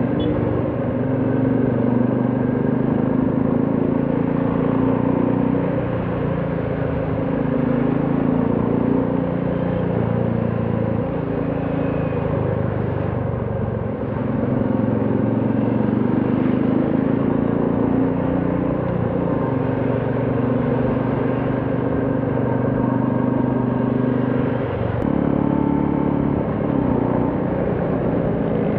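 Royal Enfield Classic 350's single-cylinder engine running steadily under way, its note shifting up and down with throttle now and then, with a clear change about 25 seconds in, over road noise.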